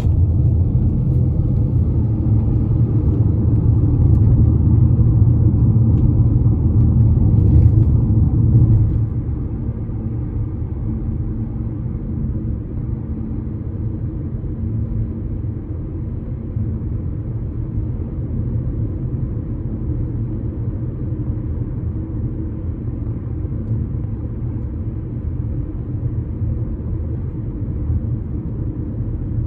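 Low rumble of traffic on a bridge, louder for about the first nine seconds, then dropping to a steadier, quieter rumble.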